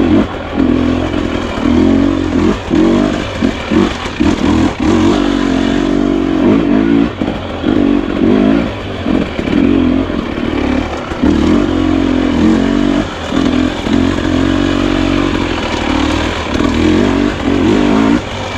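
Husqvarna TE250i two-stroke dirt bike engine under riding load, its revs rising and falling as the throttle is opened and shut again about every second.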